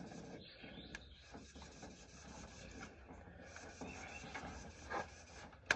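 Faint rubbing and small knocks as a rubber spark plug wire boot is worked back onto a new spark plug, with a sharp click near the end.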